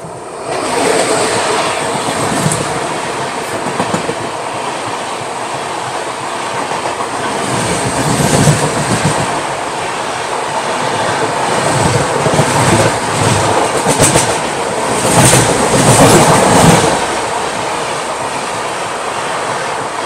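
Shramjeevi Express running at speed: a loud, steady rush of wheels on track with clickety-clack of wheels over rail joints, the clacks coming in louder clusters through the middle.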